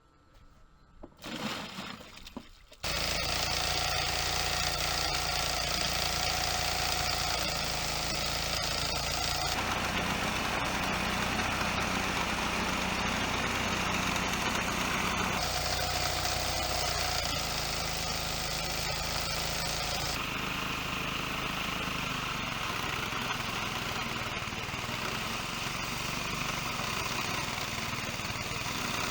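A small engine-driven machine running steadily, starting suddenly about three seconds in after some faint knocking. Its tone changes abruptly three times.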